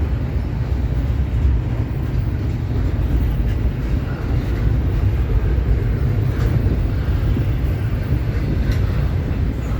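Double-stack intermodal freight cars rolling past: a steady low rumble of steel wheels on rail with a few faint clicks.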